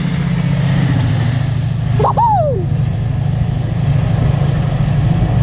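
A train running with a steady low rumble. About two seconds in comes one short honk that rises and falls in pitch.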